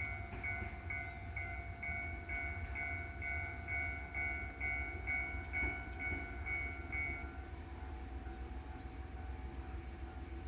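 JR Hokkaido H100 DECMO diesel-electric railcar running steadily at the station, a low rumble with a steady whine over it. A high electronic bell tone rings about twice a second and stops about seven seconds in.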